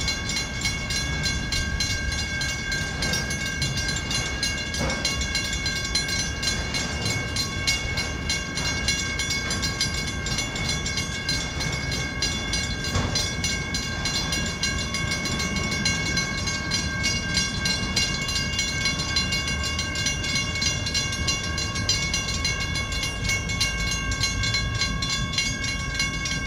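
A long freight train's autorack cars rolling past with a steady low rumble of wheels on rail. Over it runs a steady high ringing made of several held tones.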